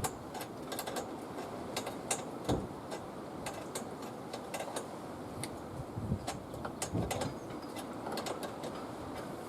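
Metal spanner clicking and clinking against a nut and coach bolt as the mower handle is bolted on, in irregular sharp clicks with a few duller knocks.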